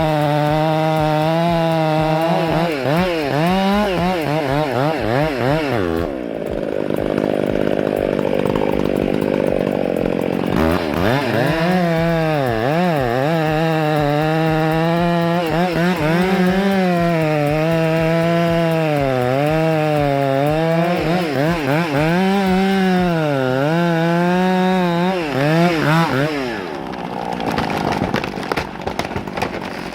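Chainsaw cutting into a tree trunk, its engine note rising and sagging again and again as the chain bogs under load. Between about 6 and 11 seconds in, the clean note gives way to a rougher, noisier sound, and the engine note drops away about four seconds before the end.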